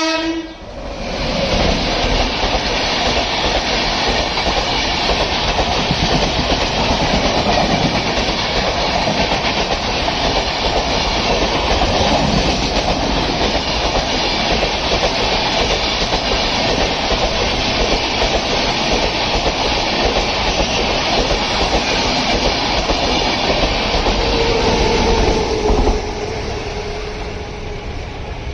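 Express passenger train running past at speed at close range: a loud, steady rush of wheels on rails and passing coaches, which drops away sharply near the end.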